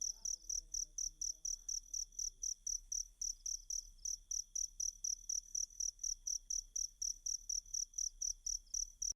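Cricket chirping in an even, rapid rhythm, about four chirps a second, over a faint steady high trill, played as a recorded tutor track for a songbird to copy.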